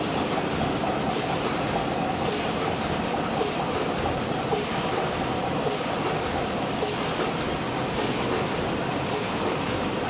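SYF-16 wet wipes making machine running: a steady mechanical noise with faint clicks scattered through it.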